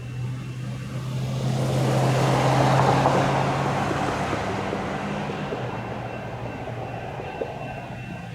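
A light rail train passing by: its rolling noise swells to a peak about two to three seconds in and fades away, over a steady low hum that stops about halfway through.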